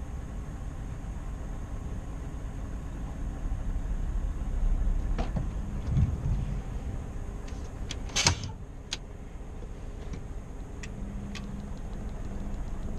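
Scania R520 V8 truck driving, a steady low rumble of engine and road noise. A few short clicks sound through it, with one sharper, louder knock a little past the middle.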